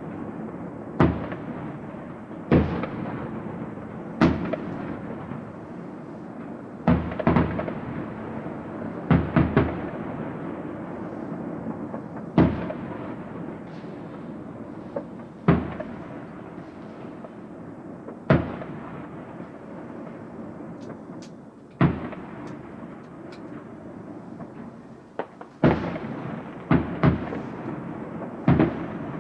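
Fireworks display: loud bangs from bursting fireworks every one to three seconds, some in quick pairs, over a continuous rumble of more fireworks.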